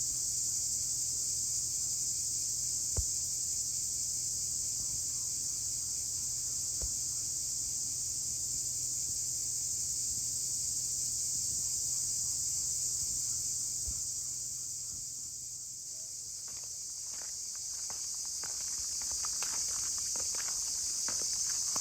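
Steady high-pitched chorus of insects, crickets or cicadas, running without a break. A few faint knocks, then a run of soft clicks and rustling over the last few seconds.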